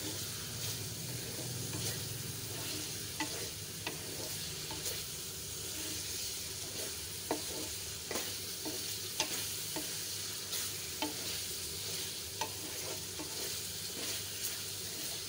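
Chicken pieces sizzling as they fry in oil in a metal pan, stirred with a spatula. Steady sizzle, with irregular clicks and scrapes where the spatula strikes and drags along the pan.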